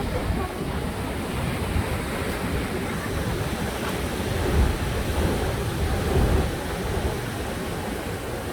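Rough sea surf breaking continuously, stirred up by a typhoon's swell, with wind buffeting the microphone as a low rumble. The surges grow louder about four and a half and six seconds in.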